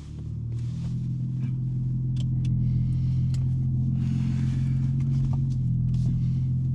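BMW M3 G80's twin-turbo straight-six, fitted with a non-resonated J-pipe, running steadily. Its drone grows louder over the first second or so, then holds even, with a few light clicks.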